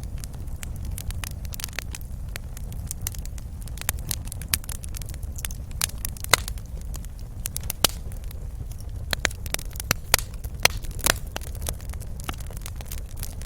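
Wood fire crackling in a fireplace: irregular sharp pops and snaps over a steady low rumble of flames, with a few louder pops scattered through.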